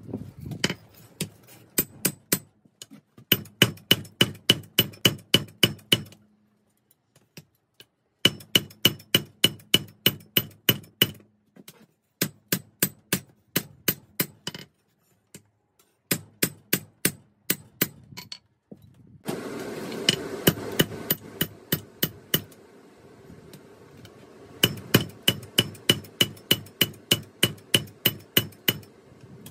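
Forging hammer striking 5160 spring steel on an anvil in runs of quick, evenly spaced blows, about three to four a second, each with a short metallic ring, broken by brief pauses. About two-thirds through, a steady rushing noise comes in for a few seconds under the blows.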